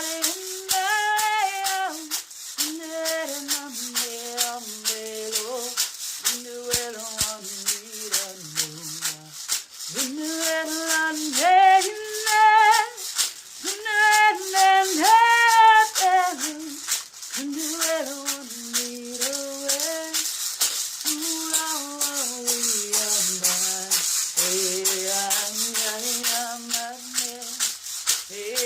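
A woman singing wordless light-language chant in long held notes that slide between pitches, over a hand rattle shaken steadily. Her phrases are louder and higher in the middle.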